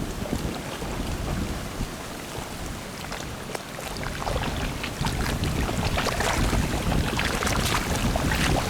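Strong wind buffeting the microphone with a low rumble, over irregular crackling splashes of water, getting louder about five seconds in.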